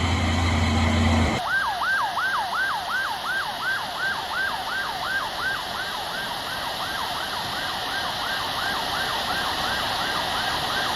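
Emergency vehicle siren in fast yelp mode, a quick rising-and-falling wail repeating about three times a second. It cuts in suddenly about a second and a half in, replacing a low steady engine hum.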